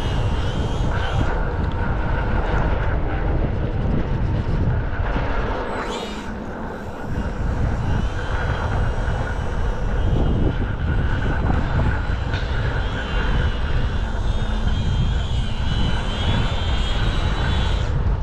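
Strong wind buffeting the microphone, with the thin, wavering whine of a UMX Radian ultra-micro electric glider's motor and propeller above it. The wind eases briefly about six seconds in, and the whine is strongest near the end.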